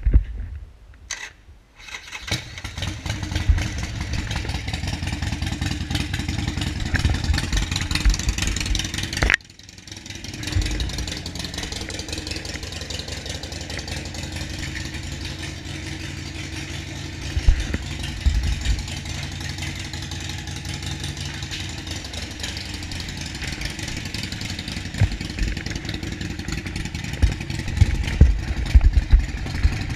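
Harley-Davidson Sportster 48's 1200 cc V-twin engine starting about two seconds in after a few clicks, then running. It drops out suddenly at about nine seconds, comes back a second later and runs steadily, with a few short louder moments near the end.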